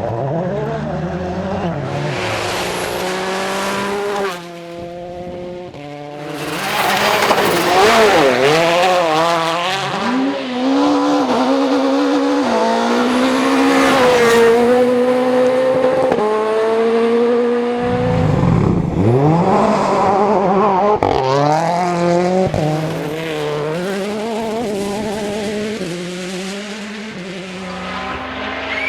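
World Rally Cars driven flat out on a rally stage, their turbocharged engines revving up and dropping through gear changes as they pass one after another.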